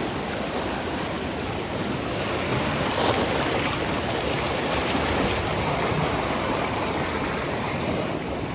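A normally tiny creek in flood, running fast and high as a steady, loud rush of water.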